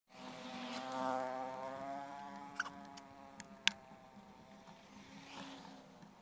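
Small motorcycle engine buzzing steadily as it climbs uphill, louder in the first couple of seconds and then easing off. Two sharp clicks come midway.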